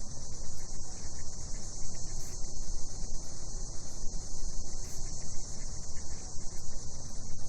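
A steady, high-pitched, unbroken chorus of cicadas at night, over a low uneven rumble.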